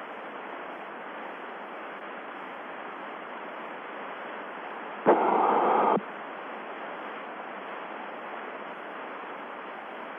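Steady hiss of the Mercury-Redstone 4 air-to-ground radio link, with a louder burst of static about five seconds in that lasts about a second.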